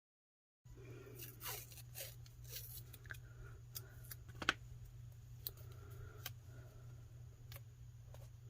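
Paper and washi tape being handled at a craft table: light rustling with scattered small clicks and snaps, the sharpest about four and a half seconds in, over a steady low hum. It starts abruptly after a moment of dead silence.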